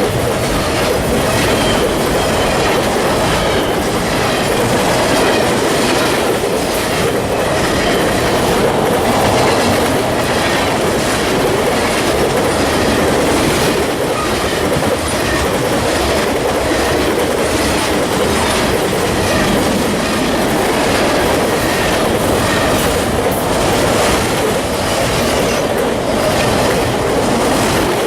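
Freight train cars rolling steadily past, a continuous loud rumble with regular clicks as the steel wheels pass over the rail joints.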